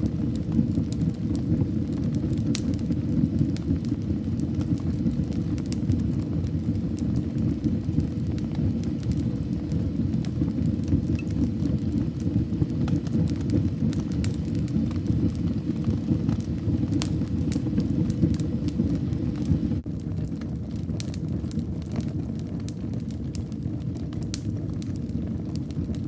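Wood fire burning in a fireplace: a steady low rumble of flames with scattered sharp crackles and pops. The rumble steps down a little about twenty seconds in while the crackling goes on.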